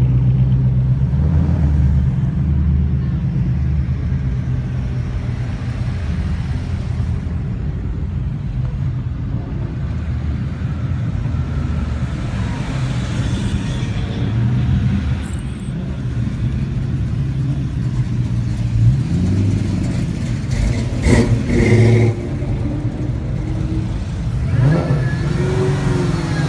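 Car engines, most likely Ford Mustangs, rumbling steadily at low speed. They are revved briefly a few times, the pitch rising and falling, about two-thirds of the way through and again near the end.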